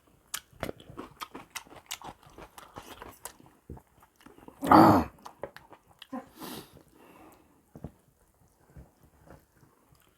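A person chewing and biting into cooked buffalo feet close to the microphone: wet smacking and gnawing with many small clicks. A short, louder sound comes about five seconds in, and the chewing is sparser after it.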